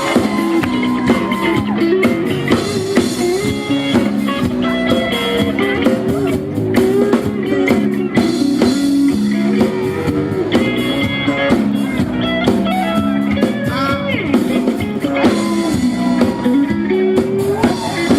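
Live band playing an instrumental stretch of a funk song, with a steady beat and a melodic line.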